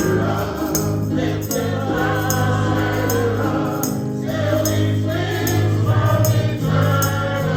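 Church congregation singing a gospel hymn together over a steady low instrumental accompaniment, with a tambourine keeping an even beat.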